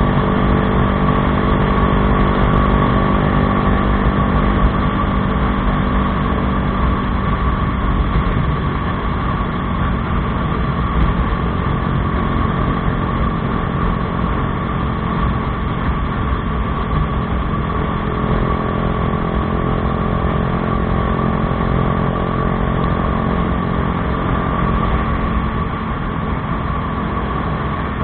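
Bajaj Dominar 400's single-cylinder engine running through an aftermarket Akrapovič exhaust, holding a steady engine speed without big revs.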